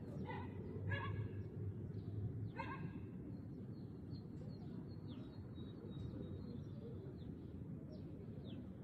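Birds calling over a steady low background rumble of outdoor noise: three short calls in the first three seconds, and brief high chirps scattered throughout.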